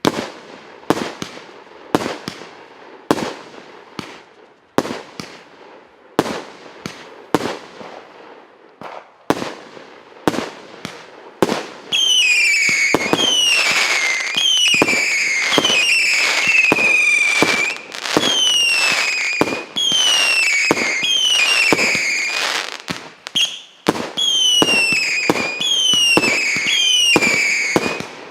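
A 143-shot, 1.25-inch fireworks cake firing in rapid succession. For about twelve seconds it gives a quick string of launch thumps and bangs, roughly two a second. From then on, piercing whistles fall in pitch one after another, with bangs in between.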